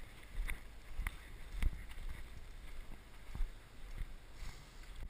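Irregular soft knocks and thumps, roughly one or two a second, over a low steady rumble.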